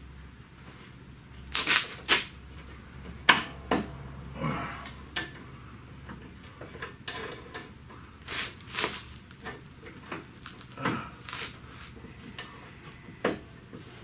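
Irregular metal clicks and knocks, a dozen or so, from hand tools being worked against the broken-loose nut and lower control arm mount inside a minivan's frame. The loudest knocks come about two and three seconds in.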